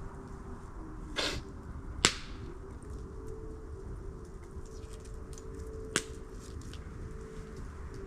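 Two sharp cracks about four seconds apart, the first the louder, with a short rasping burst just before the first, over a low steady background rumble.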